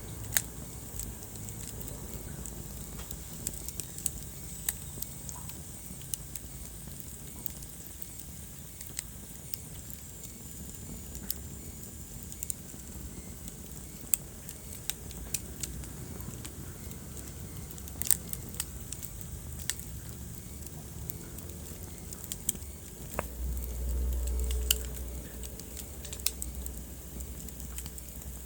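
Wood fire crackling in a fireplace: irregular sharp pops and snaps over a soft steady hiss, with a louder low rumble lasting about two seconds near the end.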